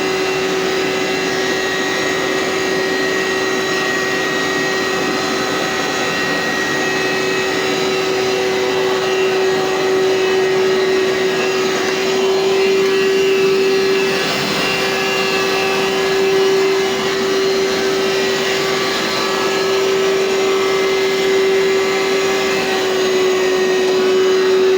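Hoover SteamVac carpet cleaner running, its motor a steady high hum with small rises and falls in level.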